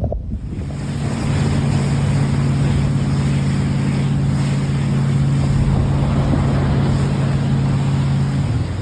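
Motorboat engine running at a steady pitch, with water and wind rushing past the hull.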